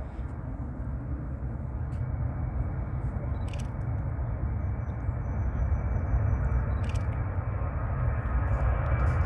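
Jet airliner's engines, a low rumble growing steadily louder as the aircraft approaches, with a few faint clicks.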